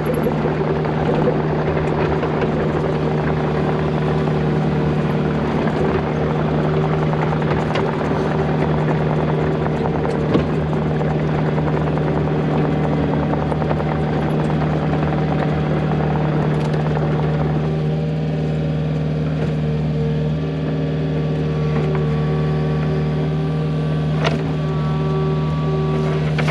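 Kubota excavator's diesel engine running steadily, a constant low hum with overtones. The rougher, hissier part of the engine sound eases about two-thirds of the way through, and there are a few sharp clanks.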